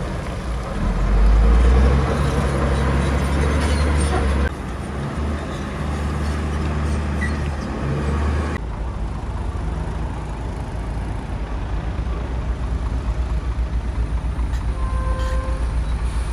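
Heavy bulldozer's diesel engine running, deep and loud, while it works pushing soil. The engine note changes abruptly twice, about four and a half and eight and a half seconds in, and turns to a rapid, even pulsing over the last few seconds.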